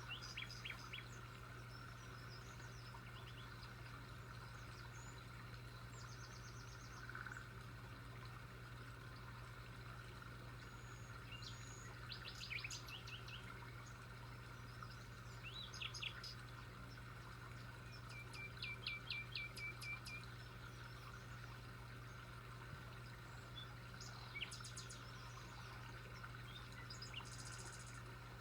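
Several small birds chirping and trilling now and then, including a fast trill of about a dozen rapid notes around 18–20 seconds in, over a faint steady low hum.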